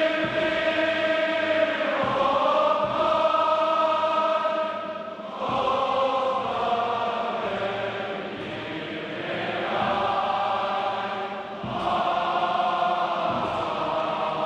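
Music with choral, chant-like singing: long held vocal notes in phrases of a few seconds, each phrase moving to a new pitch.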